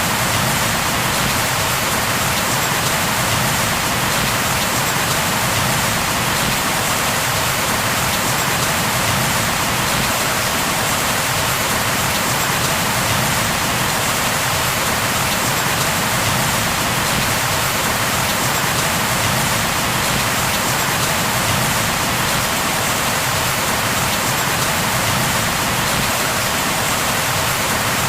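Steady heavy rain falling on a surface, an even hiss with no thunder or other distinct sounds.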